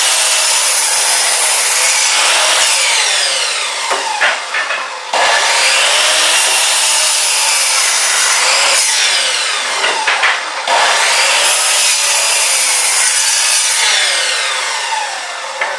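Chop saw cutting wood, with its motor whining through the blade noise. It goes in three similar runs of about five seconds each: the pitch falls away, then it starts again abruptly about five seconds in and again about ten and a half seconds in.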